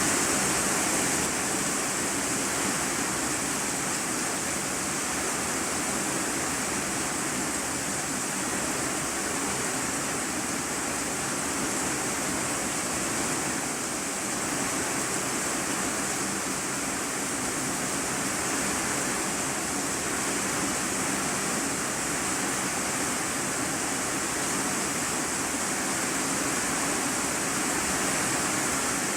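Heavy rain falling steadily on an iron-sheet roof, heard from the room beneath as a dense, even hiss with no separate drops standing out.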